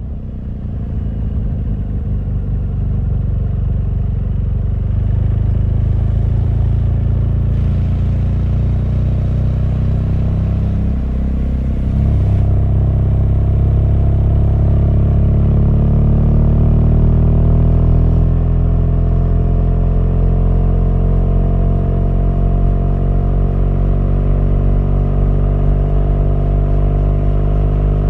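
BMW R1200GS boxer-twin motorcycle engine running under way. Around the middle its pitch dips briefly, then climbs slowly for several seconds and holds steady.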